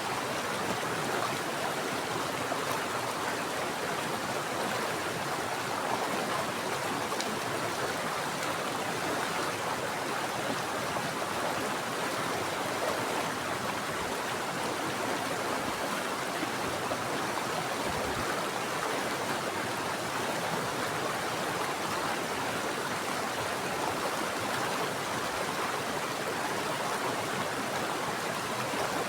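Running water of a mountain stream, flowing steadily and without a break.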